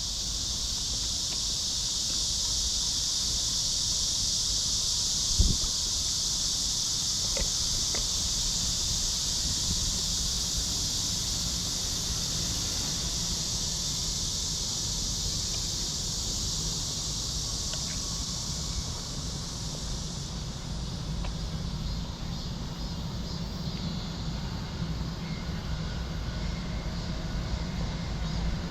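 A chorus of insects shrilling steadily at a high pitch, fading after about twenty seconds, over a low rumble of city traffic. A single sharp knock comes about five seconds in.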